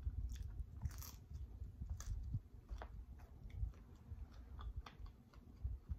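A man chewing a mouthful of homemade spinach and jerk chicken pizza with a firm crust, close to a lapel microphone: a low continuous munching with scattered small crunches and mouth clicks.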